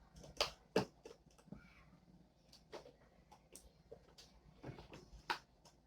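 Slime being handled and mixed by hand: a few short, sticky clicks and snaps spread irregularly over several seconds.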